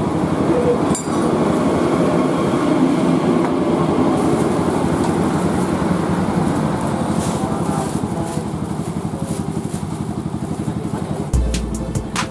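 Kawasaki KLX's single-cylinder engine running steadily through a GP7 aftermarket exhaust. Music with a heavy bass beat starts about a second before the end.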